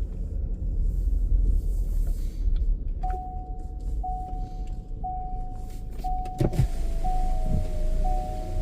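Car engine idling with a low rumble. From about three seconds in, a single-pitched electronic beep repeats about once a second, and there is one knock a little after six seconds.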